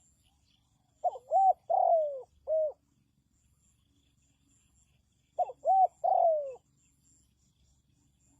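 Spotted dove cooing: two phrases of short, arched coos, the last note of each phrase drawn out and falling in pitch.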